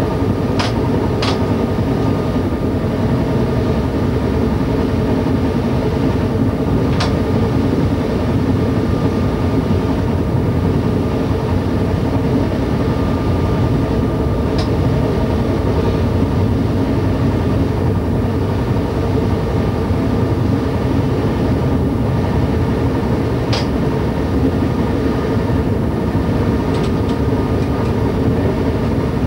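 Y2 diesel multiple-unit train running steadily at speed, heard from the driver's cab: a constant engine drone mixed with wheel and rail rolling noise. A few short, sharp clicks break through at intervals.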